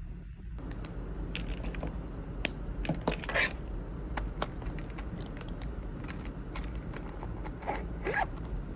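Burning birch firewood crackling: irregular sharp pops and snaps over a steady low rumble, with small clusters of crackles about three seconds in and again near the end.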